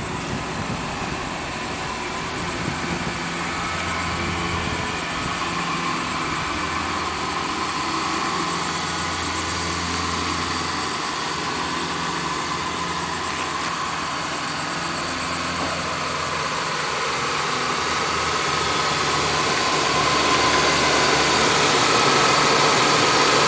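Lincoln Town Car stretch limousine's V8 engine idling steadily, growing louder toward the end.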